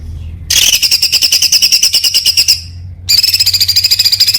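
A songbird singing a rapid-fire trill ('tembakan'), high notes repeated about a dozen times a second, in two long bursts with a short break between them. A steady low hum lies under the song.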